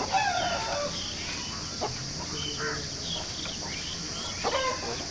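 Birds calling: repeated short chirps and clucks, the loudest a falling call right at the start, over a steady high hiss.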